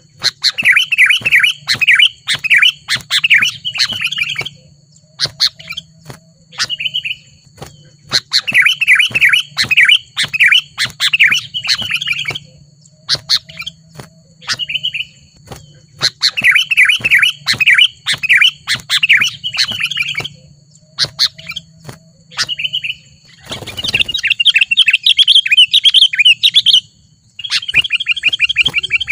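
Sooty-headed bulbul (kutilang) singing: loud four-second bouts of rapid bubbling chatter that repeat about every eight seconds, with short single calls between. A denser run of chatter comes near the end. A faint steady high whine sits underneath.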